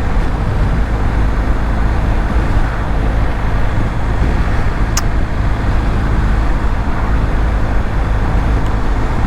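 Onboard sound of a BMW R1250 GS Adventure riding at steady road speed: the boxer-twin engine's even hum under steady wind and road noise. A single short click about five seconds in.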